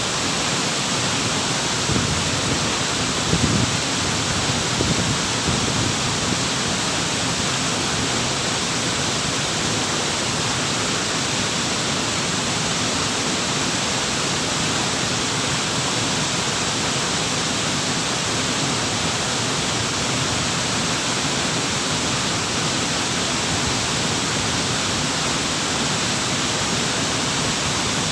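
Waterfall rushing steadily, an even, unbroken hiss of falling water, with a few brief low rumbles in the first few seconds.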